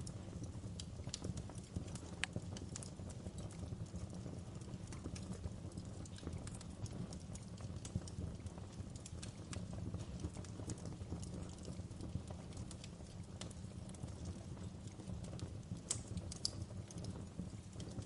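Wood fire in a fireplace crackling, with irregular sharp pops and snaps over a low steady rumble of the burning fire.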